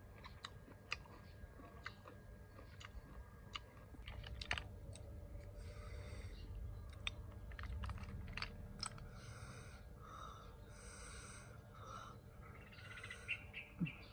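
Close-up eating sounds: chewing with many small clicks, and a few short crackly rustles as cooked snail shells are handled and picked at with a toothpick.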